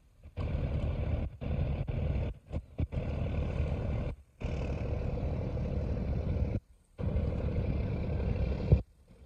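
Squid-fishing boat's engine running steadily as the boat heads out of port, its sound cutting out abruptly to near silence a few times.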